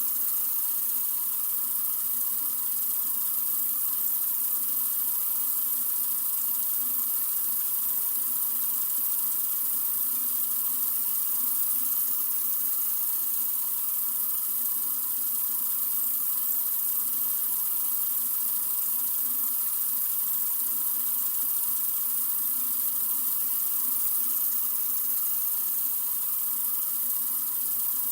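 Sink faucet running in a continuous, steady stream, a hiss of flowing water that is strongest in the highs and never changes.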